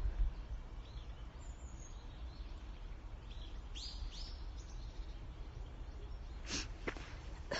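A small bird gives a quick run of about four short, rising chirps about halfway through, over a steady low rumble. A short crunch, like a footstep on forest litter, comes near the end.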